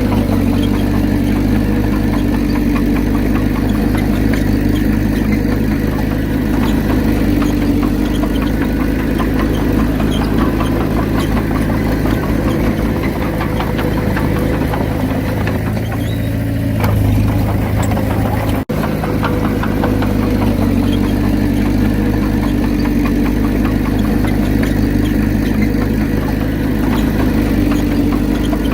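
Bulldozer diesel engine running steadily, with a momentary dropout about two-thirds of the way through.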